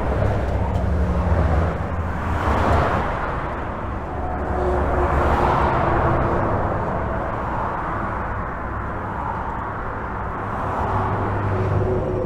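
Highway traffic heard from beneath a bridge: a continuous rush of tyres with a deep rumble, swelling each time a vehicle passes, about every few seconds.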